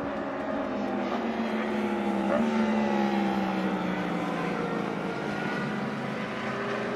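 Racing superbike engine running at high revs on a circuit, its pitch sliding slowly downward through the middle.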